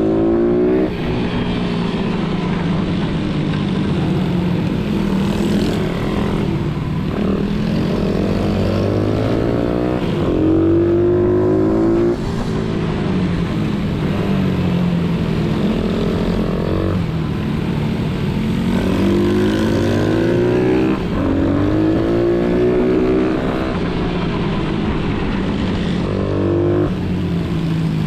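Pit bike engine running hard under load, its pitch climbing in repeated runs and dropping back abruptly, again and again, as the rider accelerates, shifts and backs off.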